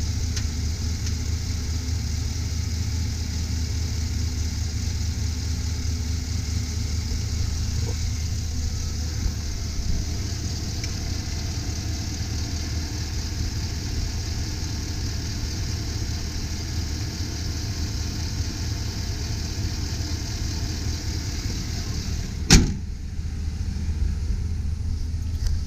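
2005 Chevy Silverado 2500 HD's V8 engine idling steadily and smoothly, with no roughness. A single sharp bang sounds near the end.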